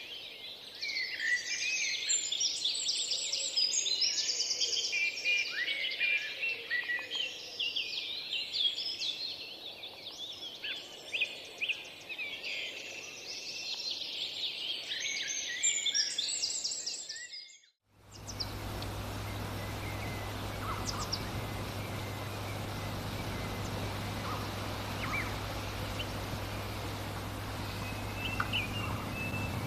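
A dense chorus of many songbirds singing and twittering over one another, which fades out about two-thirds of the way through. It gives way to a steady low hum and hiss with only a few scattered bird chirps.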